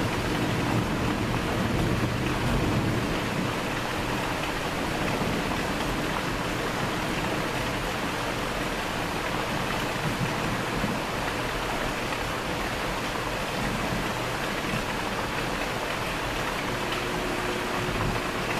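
Steady rain falling in a thunderstorm, an even hiss. A low rumble underneath fades over the first few seconds.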